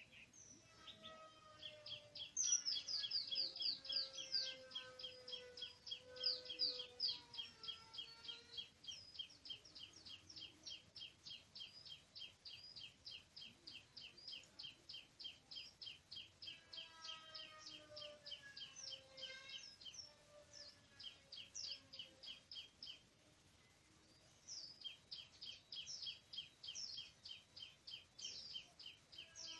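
Oriental magpie-robin calling: a long run of rapid, evenly repeated high chirps, about three a second, with a brief pause about three quarters of the way through. Fainter, lower whistles slide downward underneath at times.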